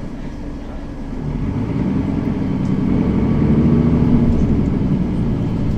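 Mercedes-Benz Citaro facelift city bus engine accelerating, growing louder from about a second in and then holding a steady drone.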